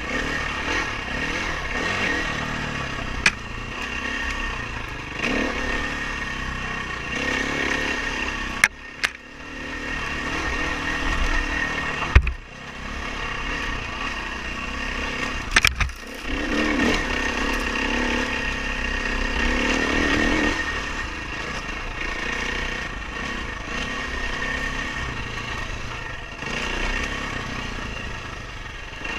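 Dirt bike engine running and revving up and down, with several sharp knocks along the way.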